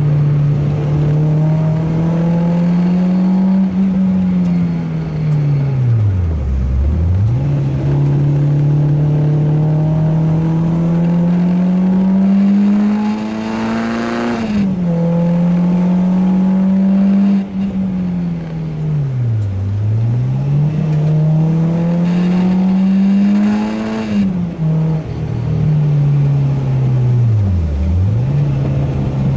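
Renault Clio 2 RS's 2.0-litre four-cylinder engine working hard on a race track. The revs climb slowly through each gear and drop sharply on two upshifts, about halfway through and again near the end. Three times the engine note plunges and climbs straight back, as the car slows for a corner and accelerates out.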